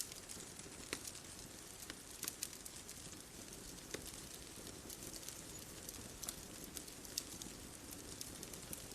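Wood fire crackling: irregular sharp pops and snaps, roughly every second or two, over a soft steady hiss.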